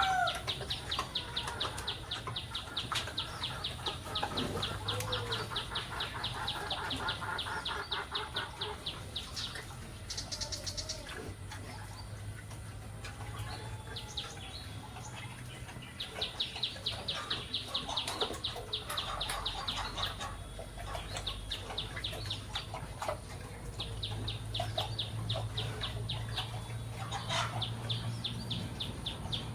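Birds calling: a fast, even trill of high chirps in three long stretches, with scattered lower calls between them.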